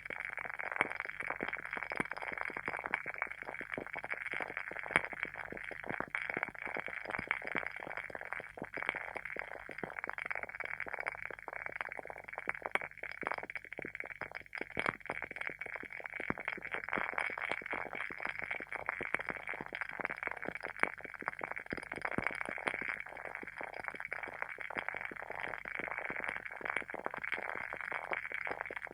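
Wooden candle wick (WoodWick candle) burning with a continuous soft crackling, many small pops a second and an occasional sharper pop, like a tiny fire.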